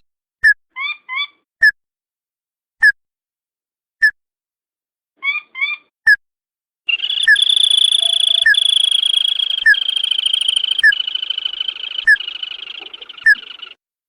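Recorded crake call (sintar padi) played as a bird-trapping lure. Short clipped notes come about once every second and a quarter, with two pairs of rising notes. About halfway through, a long continuous high trill sets in under the notes for about seven seconds.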